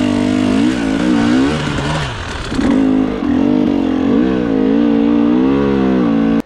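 Enduro motorcycle engine running under load, the throttle worked on and off so the pitch rises and falls over and over, with a brief drop about two seconds in.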